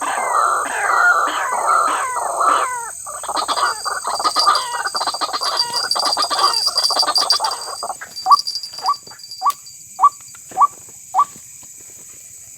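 White-breasted waterhen (ruak-ruak) calling: repeated calls about three a second, then a dense chattering run, then six short rising calls about half a second apart that stop a little before the end.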